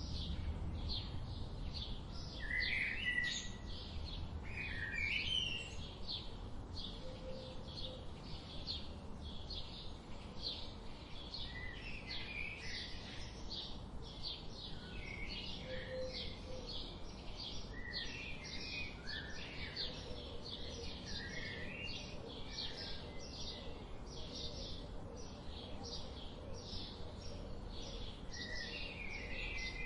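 Several wild birds singing. One repeats short, high, sharp notes at about three a second throughout, while others add brief warbling phrases now and then, over a faint low rumble.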